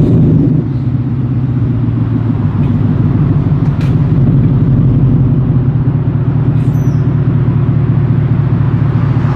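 Ford F-150 5.0 V8 running through a 4-inch MBRP cat-back exhaust, a steady deep idle rumble after a slightly louder first half-second.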